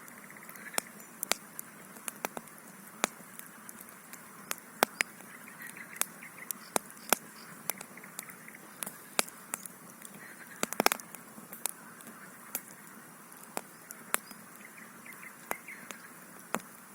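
Wood campfire crackling: sharp, irregular pops and snaps of burning wood, one or two a second, with a quick cluster of them about eleven seconds in.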